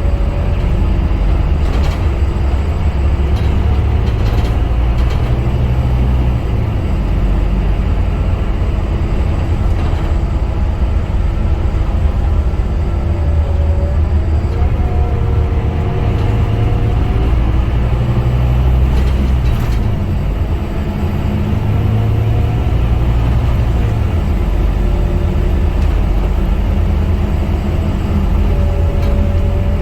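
Scania K250UB city bus's five-cylinder diesel engine running under way, its pitch rising and falling several times as the bus pulls and eases off.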